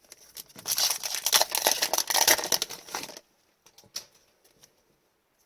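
Foil wrapper of an Upper Deck hockey card pack being torn open and crinkled for about two and a half seconds, then a few faint ticks.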